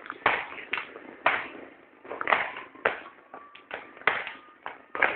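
Fireworks and firecrackers going off in an irregular series of sharp bangs, about ten in five seconds, each with a short echoing tail.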